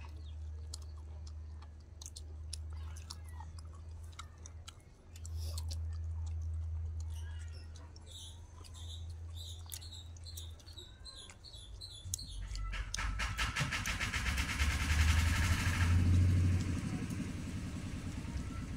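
Chewing and eating sounds with small clicks and smacks. About two-thirds of the way through, a motor vehicle's engine rises, is loudest a few seconds later, then eases off, over a steady low hum.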